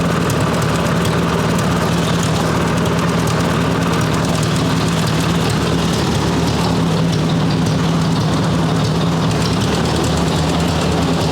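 1958 Ford 851 tractor engine idling steadily, driving the freshly rebuilt hydraulic pump while it is bled of air.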